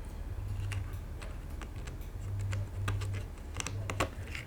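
Irregular small clicks and taps of a wire and small plastic model parts being handled and fitted by hand, over a steady low hum.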